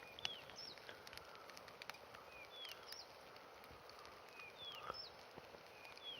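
Small birds calling faintly, a few short downward-curving chirps every second, with scattered faint clicks underneath.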